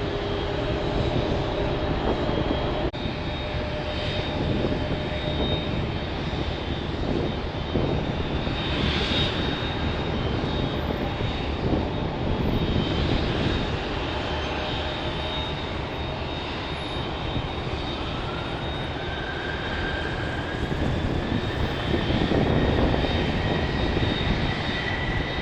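Airbus A380's jet engines running steadily at low power, a continuous rumble with a high whine on top. Over the last several seconds a second whine rises slowly in pitch.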